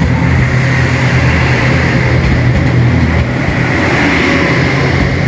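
Train running with a loud, steady low engine drone.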